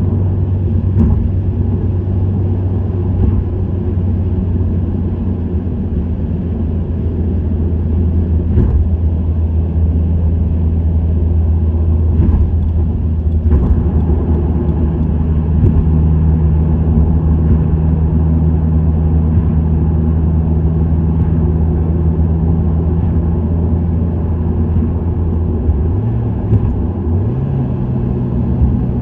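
Subaru WRX STI's turbocharged flat-four engine and STI Performance muffler running at steady cruise with road noise, a low steady drone. Near the end the engine pitch rises.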